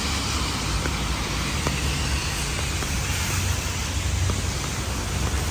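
Steady rain falling, an even hiss with a constant low rumble underneath and a few faint drops ticking.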